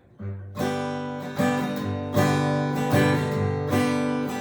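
Acoustic guitar strumming chords in a steady rhythm, a fresh strum about every second, opening with a bass note just after the start: the instrumental intro before the singing comes in.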